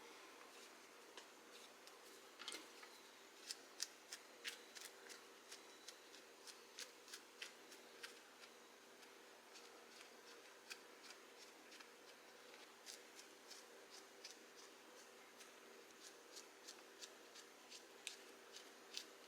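Kitchen knife scraping the skin and dirt off a wild pine mushroom in short, irregular strokes, cleaning it dry instead of washing it. Faint, with a steady low hum underneath.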